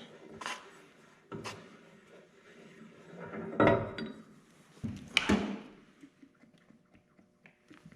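Scattered knocks, clicks and scrapes of parts and tools being handled, with about four louder knocks spread through and quieter small clicks near the end.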